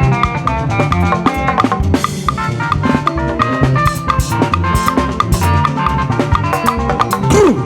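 Live band music in an instrumental passage: a drum kit keeps a steady beat with bass drum and snare under repeating pitched instrument lines.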